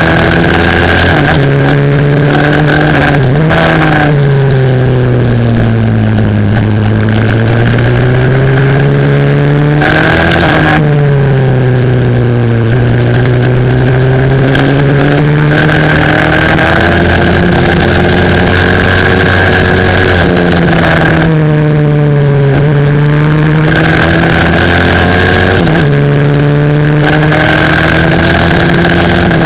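A 140cc pit bike engine heard from on board, running hard through a lap. Its note climbs as it revs out on the straights and drops sharply several times, around 3, 10, 12, 22 and 26 seconds in, as the rider slows for corners before it pulls up again.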